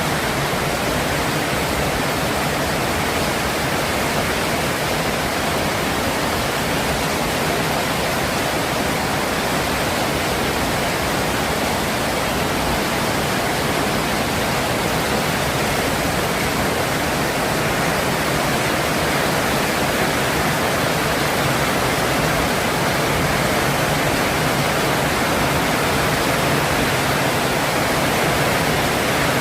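Heavy rain falling in a steady, unbroken rushing hiss.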